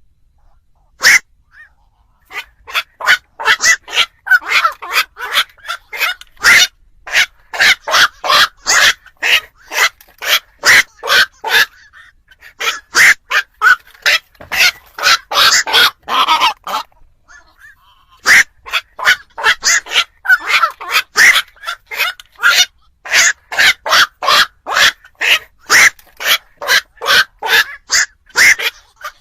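Black-crowned night herons giving rapid, harsh croaking calls over and over, about two to three a second, with a brief pause about two-thirds of the way through. It is a recording played as a lure for trapping night herons.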